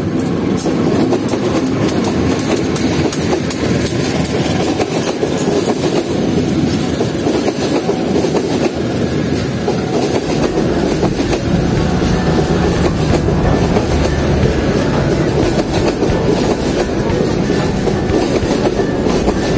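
A diesel-hauled passenger train passing close by: the locomotive goes past, then the passenger carriages run by, their wheels clicking over the rail joints. A deeper low rumble strengthens about halfway through.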